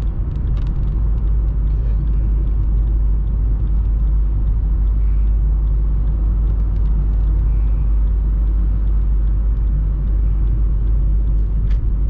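Steady low rumble of a car travelling on the road, heard from inside the cabin: engine and tyre noise.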